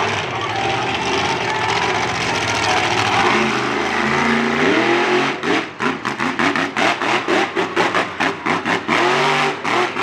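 Monster truck engine running loud, its pitch climbing about halfway in, then revved in rapid short blips, about three a second.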